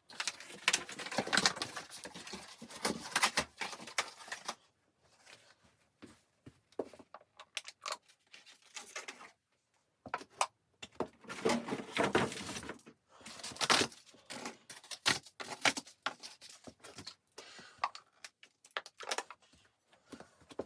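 Irregular rustling, crinkling and small clicks and clatters of things being handled in a small room, busiest in the first few seconds and again about halfway through.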